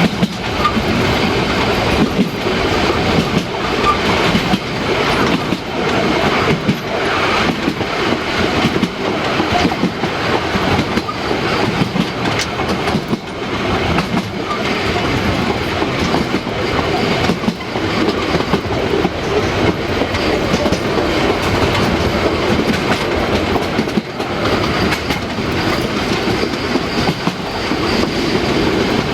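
Narrow-gauge steam train running along the track: a steady, loud running noise broken by regular knocks.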